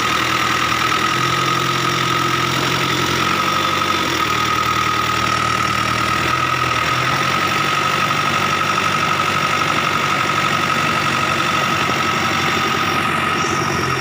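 A vehicle engine running steadily at idle, its speed shifting slightly a few times, with a steady high whine over it.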